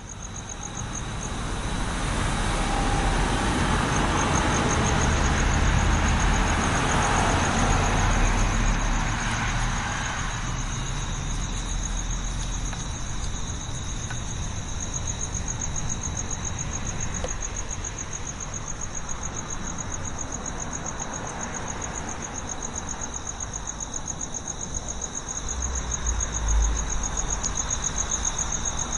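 Insects trilling steadily at a high pitch, over road-traffic noise that swells over the first ten seconds and rises again briefly near the end.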